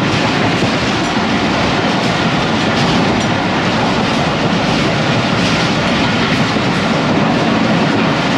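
Tezgam passenger train running at speed, about 105 km/h, heard from on board: a loud, steady rush of wheels on the rails and moving air.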